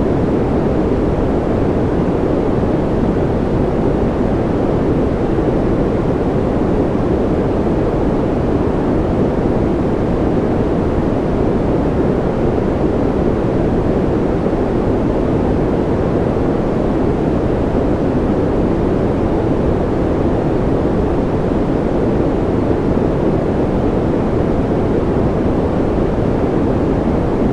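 Steady, unbroken white-noise track: an even rush weighted toward the low end, a deep rumbling hiss with little treble and no change in level.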